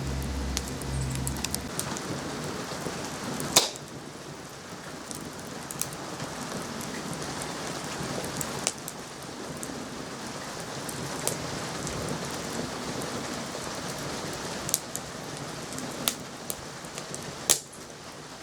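Wood fire burning in a homemade campfire stand: a steady crackling hiss with sharp pops scattered through it, a few of them louder. A low hum stops about a second and a half in.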